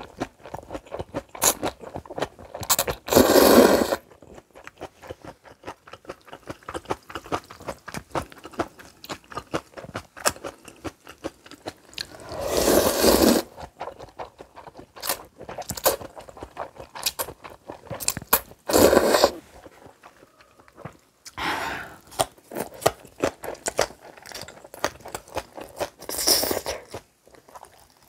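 Close-miked eating of noodle soup and kimchi: chewing with many crisp crunches and scrapes, broken by a few louder bursts of about a second each.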